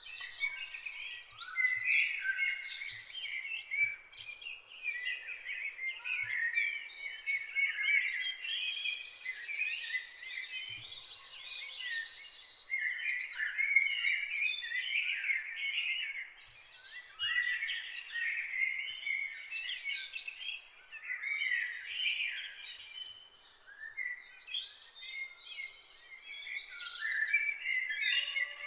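Dawn chorus of many songbirds singing and chirping over one another, without pause.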